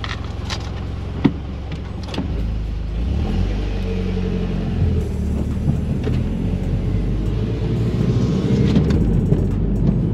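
The Mitsubishi Lancer Evolution X's turbocharged 2.0-litre four-cylinder, heard from inside the cabin as the car pulls away and gathers speed. The engine note changes about two seconds in and grows steadily louder. There is a sharp click about a second in.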